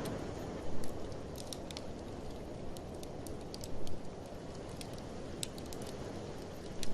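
Wood fire crackling in a fireplace, with scattered sharp pops and ticks over a steady low rush of blizzard wind. There are brief louder swells about a second in, near four seconds and right at the end.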